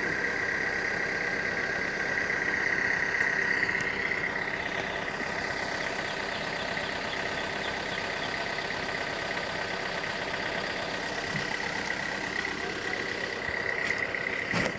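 Truck engine running steadily, a little louder for the first few seconds.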